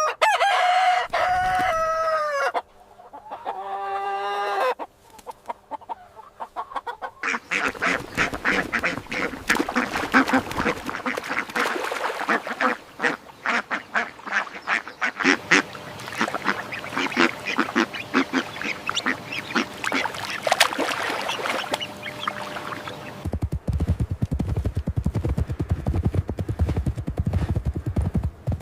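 Farmyard poultry: two long calls in the first five seconds, then many birds calling over one another for about fifteen seconds. Near the end a low noise takes over.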